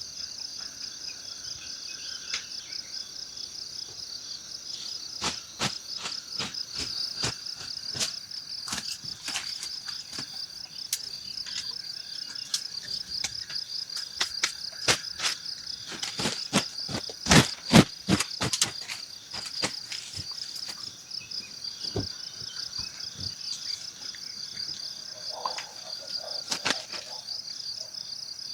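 Insects trilling in a steady, high, pulsing chorus throughout. Over it come irregular sharp clicks and knocks, which grow denser toward the middle and are loudest about two thirds of the way through, then thin out.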